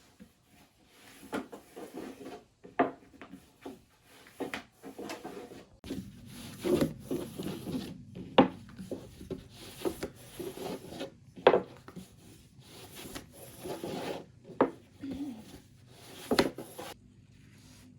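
Irregular wooden knocks and rubbing strokes from food preparation on a wooden surface, in uneven bursts with a few sharper knocks, stopping about a second before the end.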